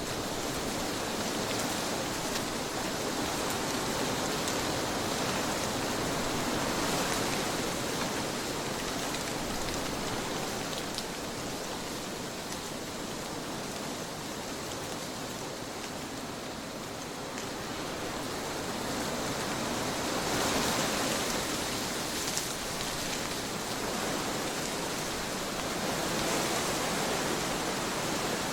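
Trade wind blowing in a steady rush, swelling and easing off slowly every several seconds.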